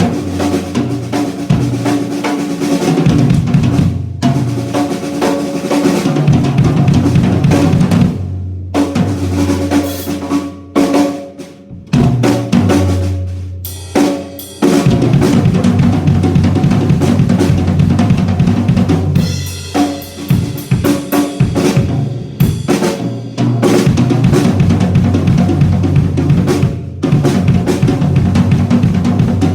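Acoustic drum kit played through a Yamaha EAD10 drum module: steady bass drum and snare grooves with fills and rolls, the kick ringing low. The playing stops briefly a few times, around 4 s, 9–12 s and 14 s in.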